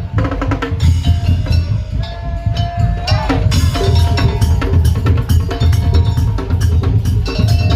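Madurese ul daul (tong-tong) percussion music played loud and fast: rapid wooden knocks of bamboo slit drums over drums and a heavy bass drum, with a pitched melody line that slides in pitch about three seconds in.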